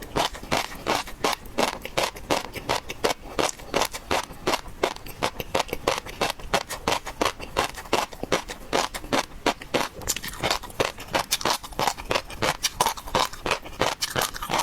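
Close-miked eating of seafood: crisp, crunchy chewing and mouth clicks, several a second without a break.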